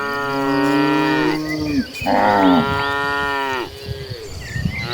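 Cattle mooing: two long moos one after the other, each held and then falling away, with some short high chirps over the second.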